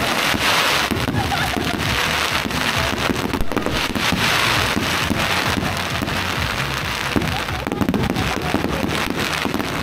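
Aerial fireworks crackling overhead in a dense, continuous run of small pops that swells in waves, with crowd voices underneath.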